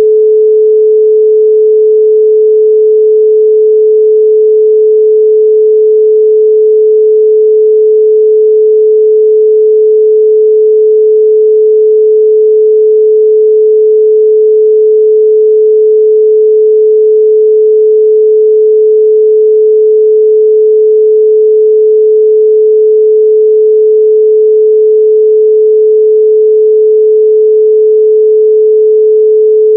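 A steady, loud pure sine tone at 432 Hz, a single unwavering pitch with no overtones.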